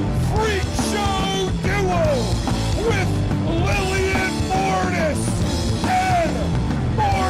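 Loud rock music from a band, punk-edged, with a melody line that keeps bending up and down in pitch over a dense, driving low end.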